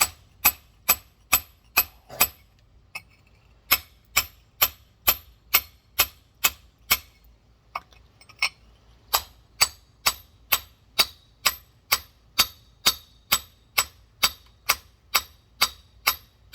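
Hammer tapping a large geode, about two light strikes a second with two short pauses, each a sharp clink: scoring a crack line around the rock to split it open.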